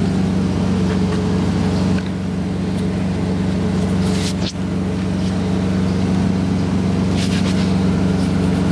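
Cummins ISX inline-six diesel of a Peterbilt 386 idling steadily, with a couple of brief higher-pitched scrapes around the middle and near the end.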